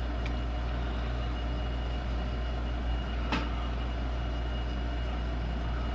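Steady low hum with a thin high whine over it, and two light clicks: a faint one just after the start and a sharper one a little past the middle.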